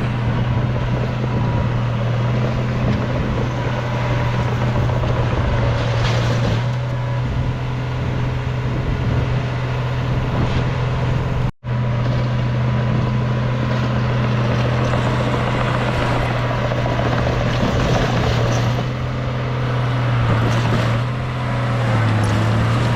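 Heavy diesel engine of earthmoving machinery running steadily with a low, even hum. The sound cuts out for an instant about halfway through, and the engine note dips briefly near the end.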